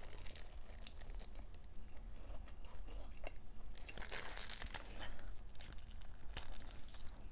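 Crunchy chewing and biting into a sushi burrito with crispy fried, battered tempura: many small crisp crackles, denser and louder for a couple of seconds past the middle as she takes another bite.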